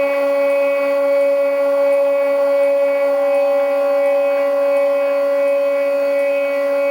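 Stepper motors of a CNC hot-wire foam cutter driving threaded rods, a steady whine with one strong tone and several higher ones; a couple of the higher tones shift in pitch about three seconds in.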